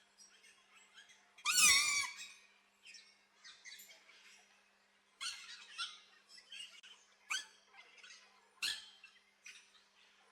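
Birds calling: one loud call about a second and a half in, followed by scattered short chirps.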